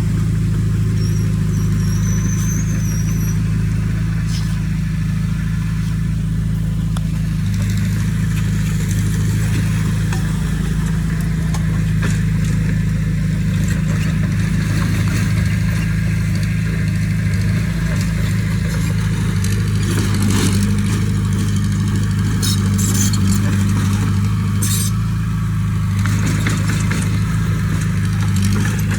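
Diesel engine of heavy earthmoving machinery running steadily under load, a constant low drone that swells slightly a few times, with scattered light clanks.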